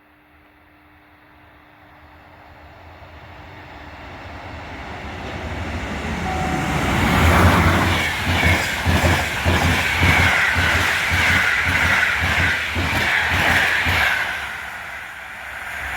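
Siemens Vectron electric locomotive and its passenger coaches passing at speed. The approach builds steadily, then comes a loud stretch of rapid, rhythmic wheel clatter over the rail joints, easing off near the end as the train moves away.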